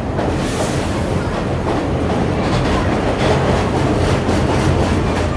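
Vintage New York City subway train running along the track, heard from on board: a steady, loud rumble of wheels and motors with irregular clicking of the wheels over the rails.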